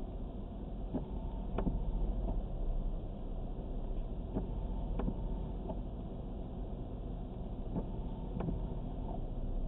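Steady low hum of a car idling, heard inside the stopped car's cabin, with a few faint, scattered clicks.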